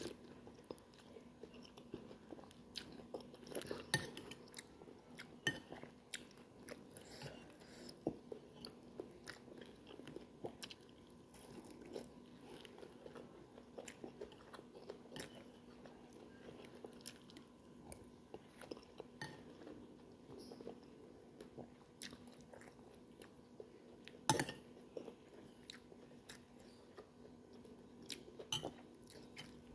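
A person chewing soup with vegetables close to the microphone: many small wet clicks and smacks of the mouth, with one louder click about 24 seconds in.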